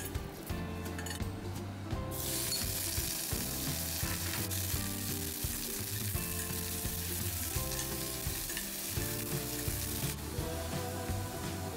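Raw chicken pieces sizzling as they are stir-fried in a hot stainless steel pan with a metal spatula. The sizzle starts suddenly about two seconds in and falls away near the end, with background music underneath.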